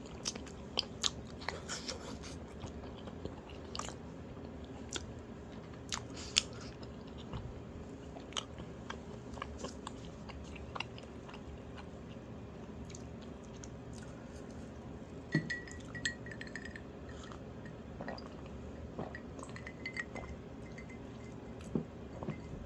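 Person chewing food close to the microphone, with scattered sharp crunches and clicks over a low, steady room hum.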